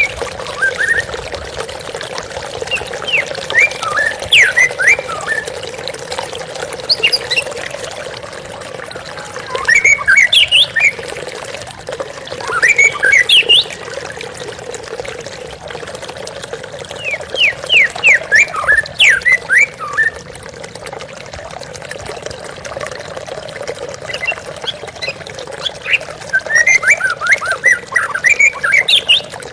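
Running water flowing steadily, with a white-rumped shama singing over it in six short bursts of quick chirps and whistles.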